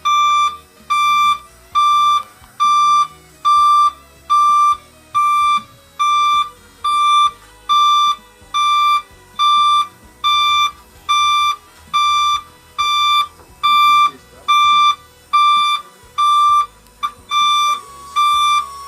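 Electronic warning beeper on a movable aircraft loading bridge, sounding a steady series of high beeps, a little more than one a second, each about half a second long: the motion alarm while the platform retracts.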